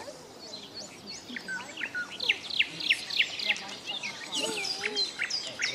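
Birds chirping: short, high, falling chirps begin about a second in and quicken to a run of about three a second, with more scattered chirps near the end, over a faint steady outdoor hiss.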